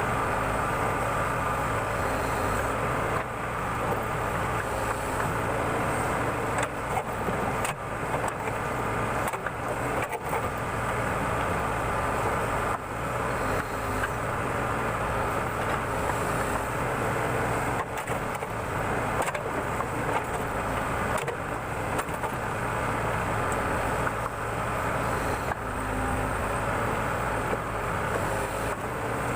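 Backhoe loader's diesel engine running steadily under digging load, with scattered short knocks from the bucket and arm working the soil around the piles.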